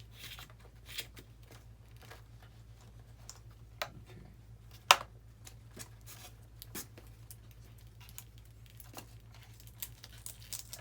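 Scattered small clicks, taps and crinkling from hands handling wiring and parts of an RC model airplane, with one sharper click about five seconds in, over a low steady hum.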